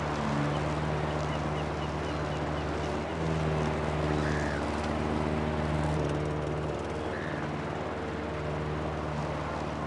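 Lawn mower engine running steadily while mowing, its pitch shifting slightly a couple of times.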